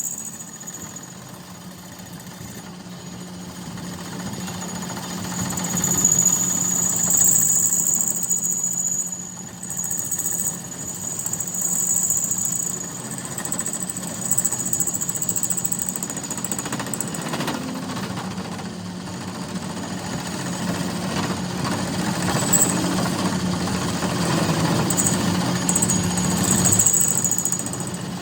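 A machine running steadily with a low hum and a high whine, with rattling knocks through the second half.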